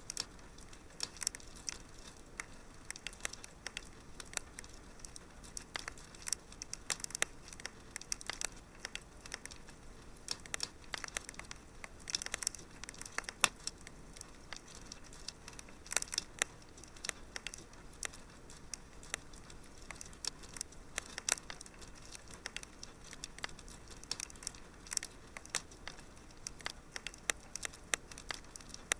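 Wood fire crackling in a fireplace: a steady soft hiss with irregular sharp pops and snaps.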